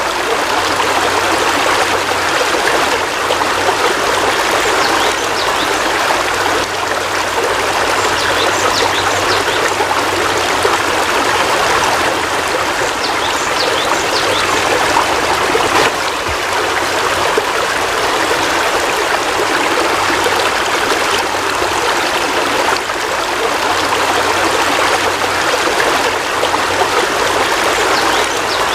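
Heavy rain falling steadily, an even rush of water with no break.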